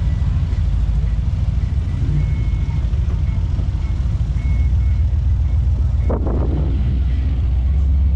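Car engine running at low speed close by, a deep pulsing rumble, with a short louder burst about six seconds in.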